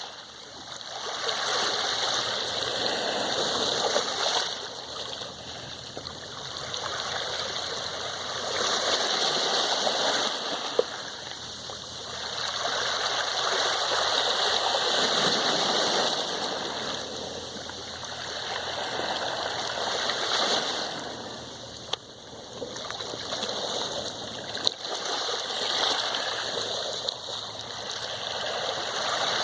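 Sea waves washing in and drawing back, the rush of water swelling and ebbing every few seconds, with a few brief sharp clicks.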